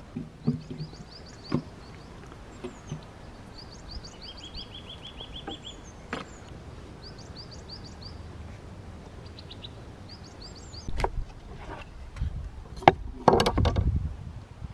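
Small songbirds singing over and over, short phrases of quick falling notes with a brief trill in between. Near the end this gives way to several sharp knocks and a louder burst of handling noise.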